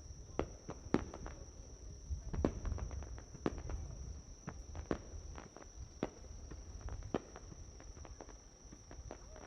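Insects chirping in one steady, unbroken high trill, with irregular sharp clicks and knocks about one to two a second over a low rumble.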